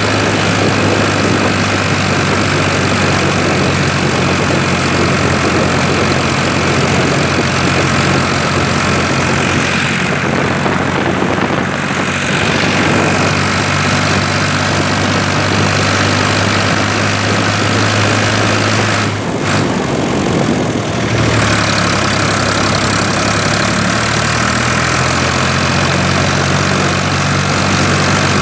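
Ford 3000 tractor's three-cylinder engine running steadily while driving. About twenty seconds in, the engine note dips briefly and then settles at a slightly lower pitch.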